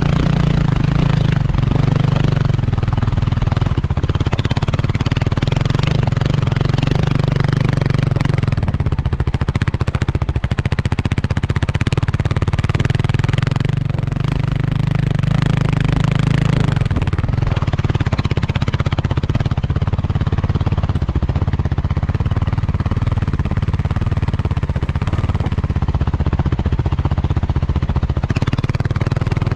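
Kawasaki KLX300R dirt bike's single-cylinder four-stroke engine running steadily while riding, with light clatter over the engine note.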